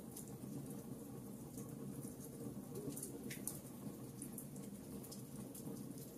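Wood fire burning in a fireplace, crackling with many small, irregular pops over a steady low rush of flame.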